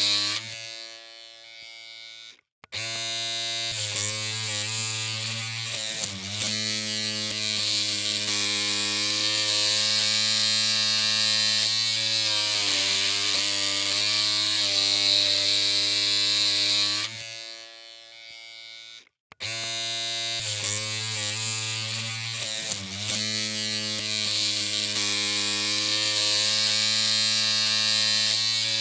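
Electric hair clippers running with a steady buzzing hum. The hum drops away about half a second in and again around the middle, coming back on a couple of seconds later each time.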